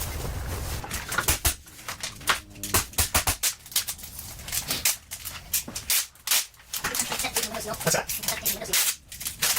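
Irregular sharp clicks and knocks from hand work on the cabin's ceiling insulation, with a brief low tone about two and a half seconds in and again near the end.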